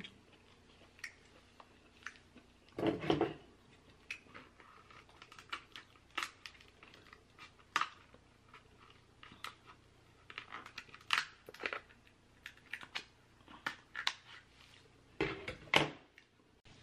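King crab shell being cracked and picked apart by hand: scattered sharp clicks and crackles, with louder bursts about three seconds in and near the end.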